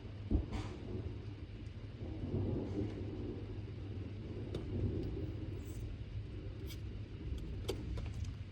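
Strong thunderstorm wind gusting against a phone microphone, a low rumbling noise that swells and eases, with a sharp click about a third of a second in.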